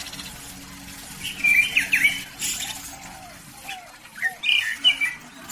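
Several caged birds calling together: bursts of sharp chirps and whistled notes about a second and a half in and again near the end, over softer, lower repeated calls.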